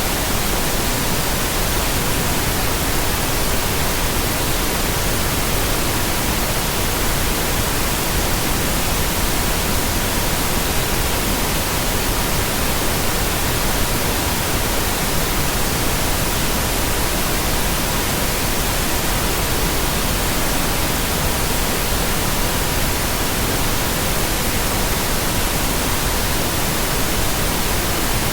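Steady pink noise with a faint, steady 963 Hz tone running under it.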